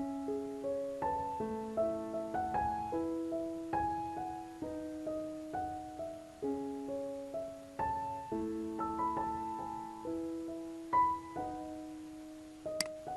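Background piano music: a gentle melody of single notes, each struck and fading, over held lower notes.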